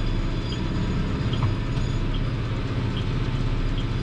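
Diesel tractor engine running steadily with a low, even rumble, with a short high chirp repeating a little more than once a second.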